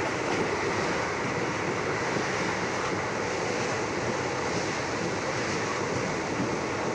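Saryu Yamuna Express train running, a steady rushing noise with no clear rhythm of wheel clicks.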